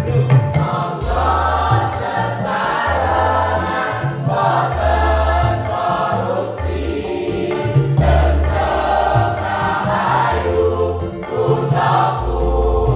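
Choir singing in parts over an accompaniment, with low bass notes that change about once a second under the voices.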